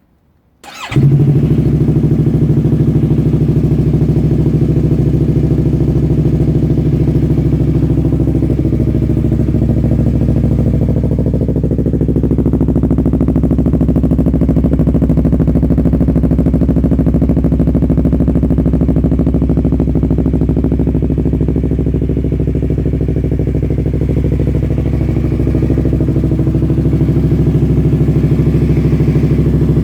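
2015 Yamaha R3's 321 cc parallel-twin engine starting up about a second in, then idling steadily through its aftermarket exhaust.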